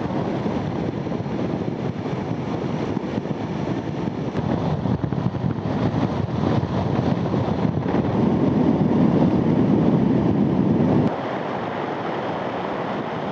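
Wind and road noise from riding a motorcycle at speed: a dense, steady rushing sound on the microphone. It drops abruptly to a lower level about eleven seconds in.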